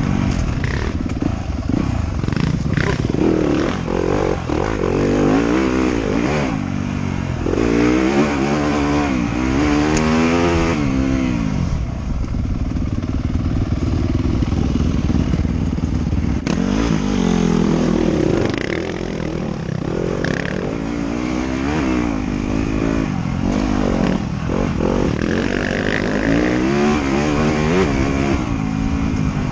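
Trail motorcycle engine being ridden hard, its pitch rising and falling repeatedly as the rider accelerates and backs off.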